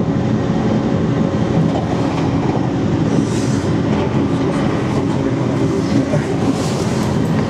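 Running noise heard from inside a train cabin at speed: a steady rumble of wheels on rail with a low hum. Two brief hissing swells come about three and six and a half seconds in.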